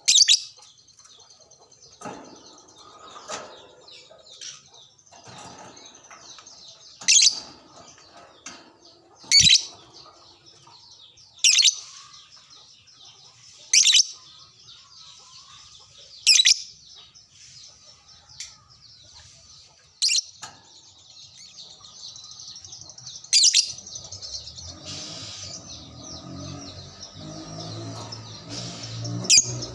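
Lovebirds chattering in a steady high-pitched stream, cut by short, sharp, loud shrieks about every two to three seconds. Near the end the chatter thickens into a longer unbroken trill.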